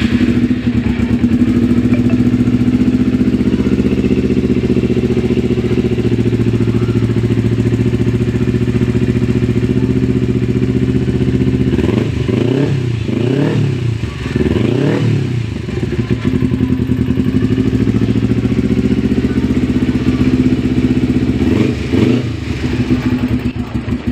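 Four-stroke Kawasaki Ninja motorcycle with a Yoshimura aftermarket exhaust idling steadily. About halfway through it is revved in three quick throttle blips, each rising and falling, and it is blipped once more near the end.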